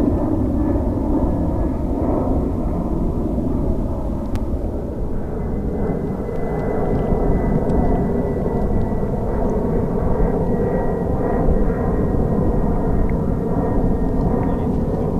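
Jet airliner engines running loud and steady, a dense low rumble with a thin high whine through the middle.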